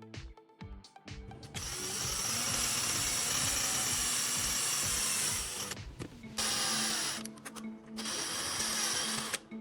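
Power tool running in three bursts, the first about four seconds long and the others shorter, cutting off sharply each time, over background music.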